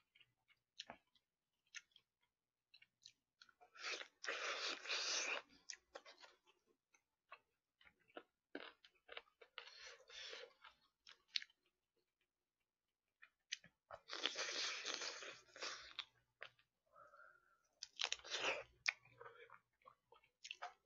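Close-miked chewing of braised chicken and kimchi. It comes in four bursts of a second or two each, with small clicks between them.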